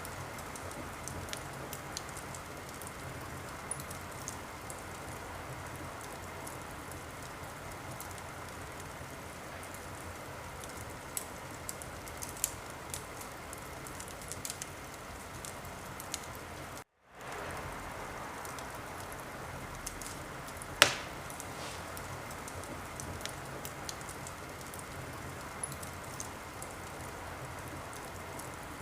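Wood fire in a fireplace crackling steadily, with frequent small snaps and one loud pop about two-thirds of the way through. The sound drops out for a split second just past the middle.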